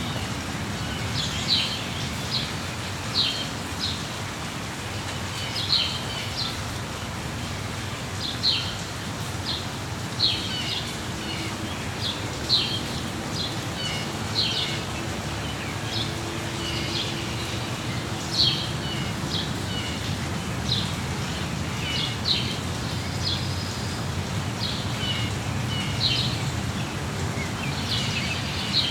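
Songbirds chirping in short calls, one every second or two, over a steady hiss of falling rain.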